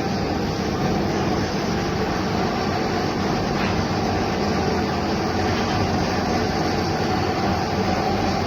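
Metal lathe running steadily while machining a hydraulic cylinder piston: continuous machine noise with a faint, steady high whine.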